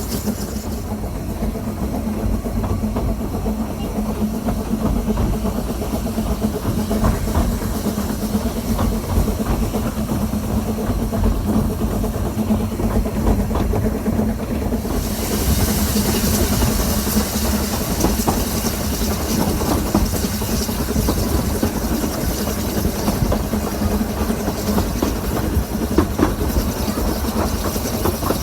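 Narrow-gauge steam train running, a steady rumble throughout, with a loud hiss coming in about halfway.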